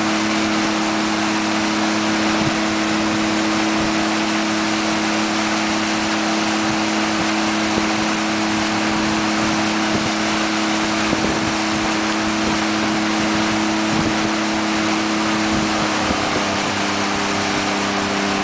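Small motorboat's engine running at a steady pitch over a loud rush of water and wind; about sixteen seconds in the engine note shifts lower.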